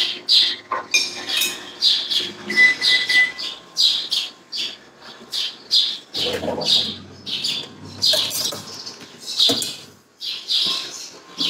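A bird chirping over and over: short, high chirps about two a second, with a brief held whistle-like note about two and a half seconds in. A duller, lower noise comes in around six seconds.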